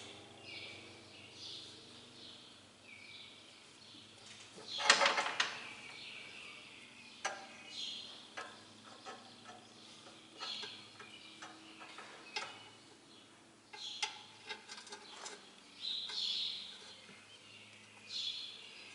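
Birds chirping repeatedly, with scattered metallic clicks and one louder rattling clatter about five seconds in.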